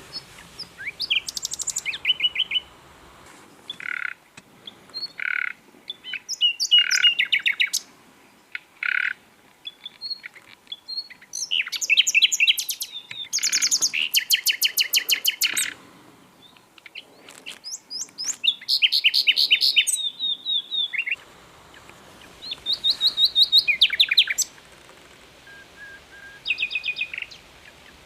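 Common nightingale (Luscinia megarhynchos) singing in separate phrases a second or two long with short pauses between them. The phrases mix single clear whistled notes with fast trills of rapidly repeated notes.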